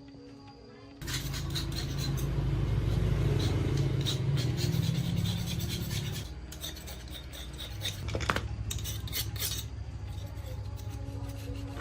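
Metal parts clinking and scraping over a low machine hum that starts abruptly about a second in and drops to a quieter hum about six seconds in.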